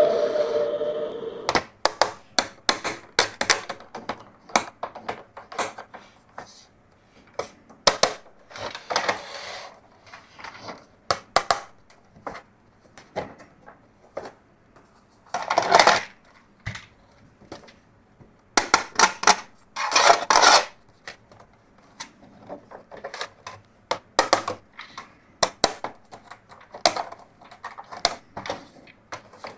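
Irregular clicks and clatters of small hard plastic toys being handled, with a few short rustling scrapes.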